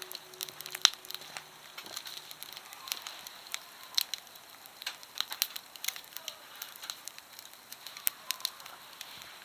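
Campfire wood crackling and popping with irregular sharp snaps, one loud pop about a second in. The fading hum of a struck temple bell dies away during the first two seconds.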